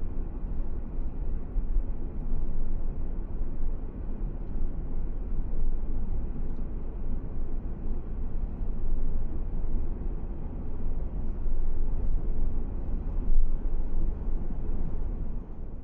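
Steady low rumble of a car driving along the road, engine and tyre noise with no distinct events.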